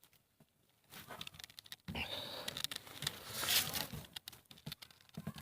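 Rustling and scraping handling noise with scattered clicks, starting about a second in and loudest about three and a half seconds in; no gunshot.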